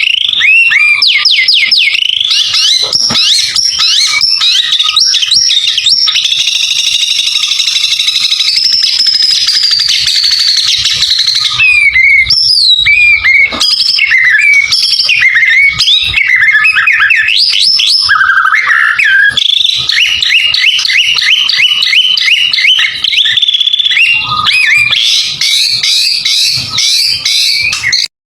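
White-rumped shama (murai batu) singing loudly and without pause: quick runs of sweeping whistled notes and fast repeated trills.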